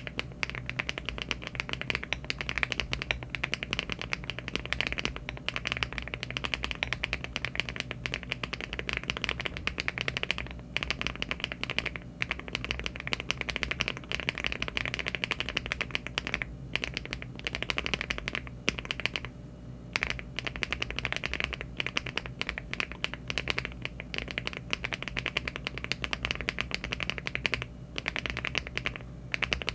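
Mechanical keyboard with HMX Duck Duck switches in an aluminium LEOBOG Hi75 case being typed on fast and continuously: a dense run of keystroke clacks with a few short pauses. These are switches the typist ranks among the high-pitched ones.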